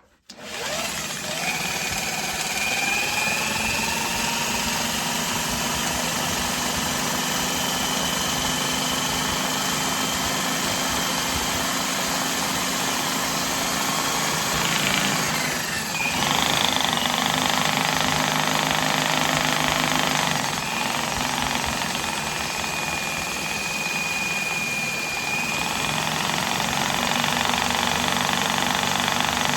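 Corded electric drill running continuously, spinning a Husky drum-type drain snake attachment, with a steady motor whine that shifts in pitch a few times as the load changes.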